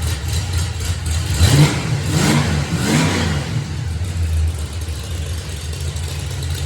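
Fox-body Ford Mustang engine idling after a start, blipped three times in quick succession about a second and a half in, then settling back to idle. It runs rough and loud, 'like a dump truck', from an exhaust leak that the owner traces to a blown-out side of the rear exhaust.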